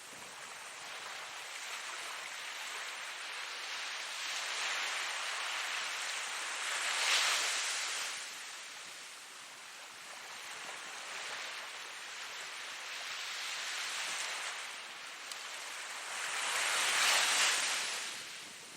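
Ocean waves breaking and washing on a shore, a steady hiss of surf that swells and ebbs, with the two loudest waves breaking about seven seconds in and near the end.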